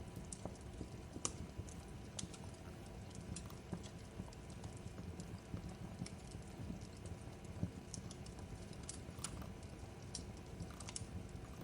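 Fireplace fire crackling: irregular sharp pops and snaps over a low, steady rumble of burning wood, with the loudest pops about a second in and again past the middle.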